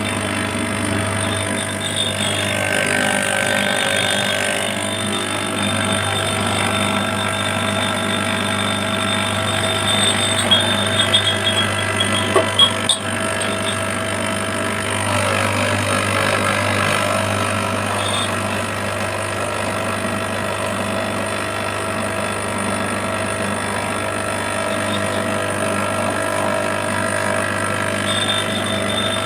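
De'Longhi pump espresso machine running with a steady, even hum, with a few short knocks about halfway through.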